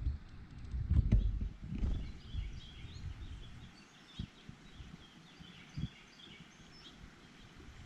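Small birds at a feeder giving many short, high chirps, with low thudding and rumbling in the first few seconds and two sharp knocks later on.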